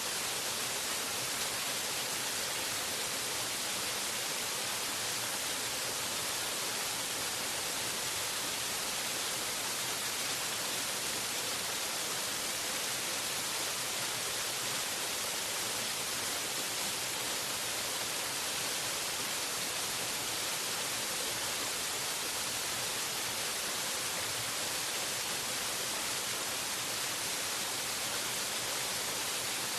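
Waterfall rushing steadily and without change, mostly a high hiss with little low rumble.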